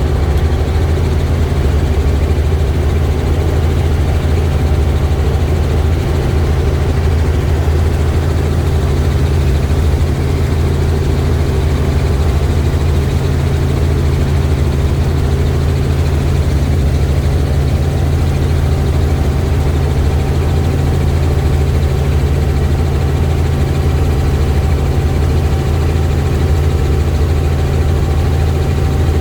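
Helicopter engine and rotor in flight, a loud, steady drone with a low hum and a faint thin whine above it.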